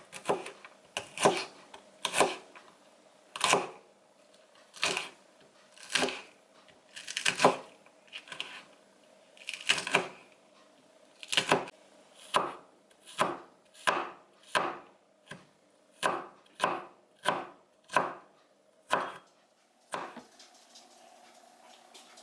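Knife chopping on a cutting board: slow, uneven single strokes, a couple of dozen of them, roughly one a second, stopping near the end.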